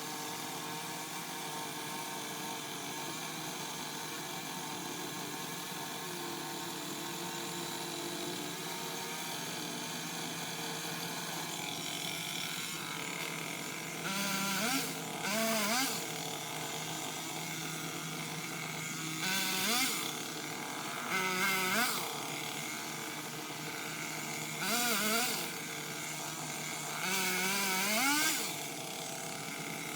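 Craftsman power pole saw revving up in short bursts, about five times in the second half, as it cuts tree limbs, over a steady engine-like drone.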